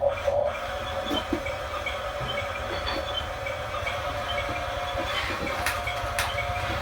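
Small electric motors and plastic gearboxes of a Huina RC construction toy running, a steady whine with light clicking from the gears.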